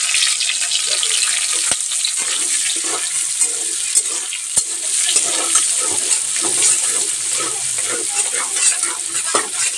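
Chopped onion, garlic and green chillies sizzling in hot oil in an aluminium kadhai while a flat steel spatula stirs and scrapes them around the pan, with two sharp clicks in the first half.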